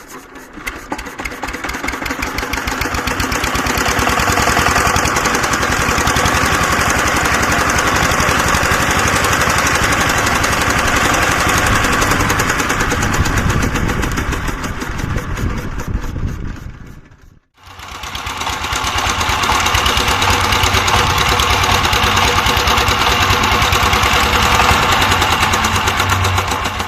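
Single-cylinder Peter diesel engine running steadily at the tubewell, with an even beat of firing knocks as it drives the pump. The sound swells in over the first few seconds, breaks off completely about 17 seconds in, and comes back after a second.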